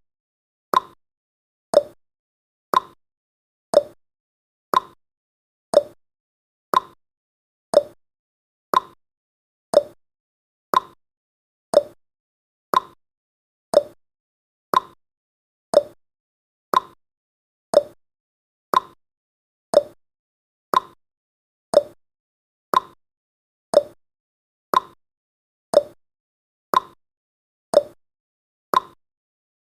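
Clock-tick sound effect of a countdown timer: one short, sharp tick every second, evenly spaced, each dying away quickly.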